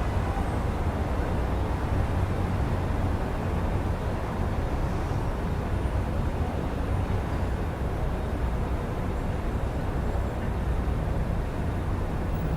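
Steady low rumble of city road traffic heard through an open window.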